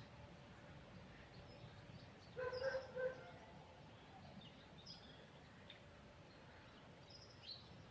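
Quiet outdoor background with small birds chirping faintly now and then, and a brief pitched sound about two and a half seconds in.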